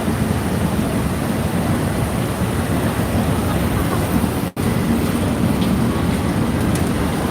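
Steady rumbling street noise, traffic or wind on the microphone, with a brief dropout about four and a half seconds in.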